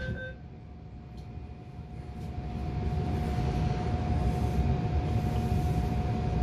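MTR A-Train electric multiple unit starting off from the platform just after its doors have shut: a steady whine from the train's electrical equipment, with a low rumble that grows louder from about two seconds in as the train begins to pull away.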